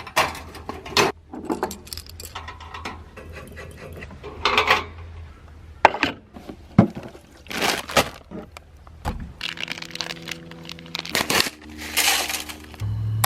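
Clinks, knocks and clatter of cooking gear and utensils being handled and set out for a camp meal, some with a brief metallic or glassy ring. A low steady hum comes in for about three seconds near the end.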